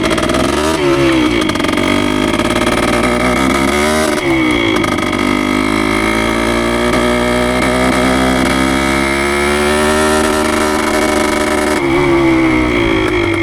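1973 Yamaha CT3's single-cylinder two-stroke engine running under light throttle while being ridden, its pitch rising and dropping twice early on as it goes up through the gears, then holding steady. The freshly rebuilt engine is being broken in.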